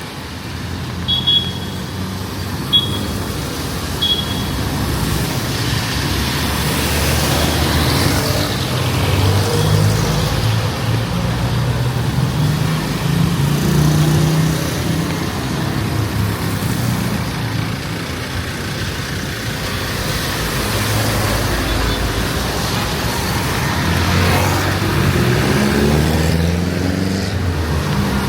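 Street traffic: motor vehicles running and passing close by, their engine noise swelling and fading in turn. Three short high beeps sound in the first few seconds.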